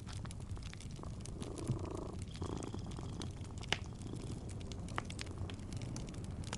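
A cat purring steadily, with a wood fire crackling and popping over it in scattered sharp clicks. The loudest pop comes a little past the middle.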